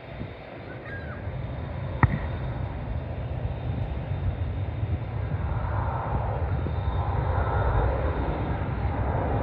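Airliner engines rumbling and growing steadily louder as the plane draws nearer, with one sharp click about two seconds in.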